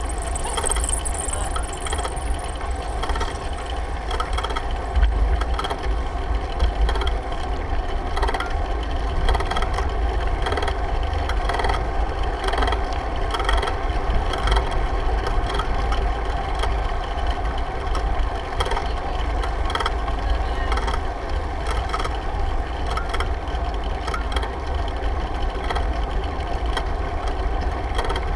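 Wind rumbling steadily on a GoPro microphone while riding a bicycle, with tyre and road noise and many small rattles and clicks.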